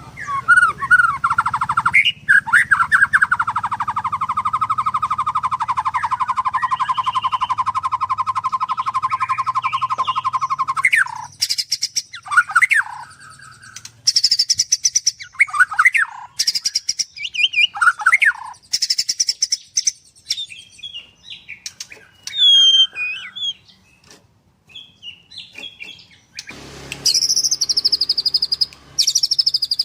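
White-rumped shama (murai batu) singing. About two seconds in it gives a long, fast, machine-gun-like trill, 'nembak', held for roughly nine seconds, then breaks into varied short whistled phrases and high chattering notes.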